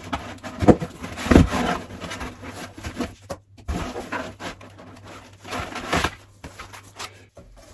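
Handling of a large cardboard box and its packing: a few sharp knocks near the start, then rustling and scraping in bursts.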